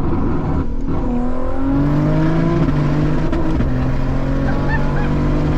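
Turbocharged BMW M3 engine pulling hard under acceleration, heard from inside the car. The note climbs, drops at a gear change about two and a half seconds in, then holds high, over steady wind and tyre rush.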